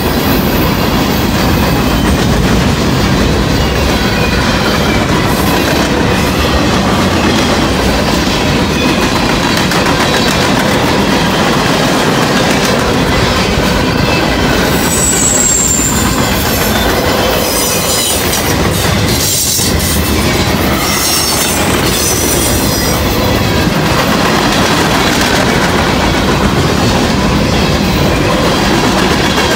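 Freight train's cars passing close by, a mixed manifest of boxcars, covered hoppers and tank cars, with steel wheels rolling and clicking over the rails. High wheel squeals come in briefly from about halfway through.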